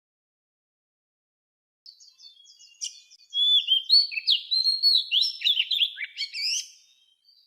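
A songbird singing a fast, varied phrase of chirps and sliding whistles, starting about two seconds in.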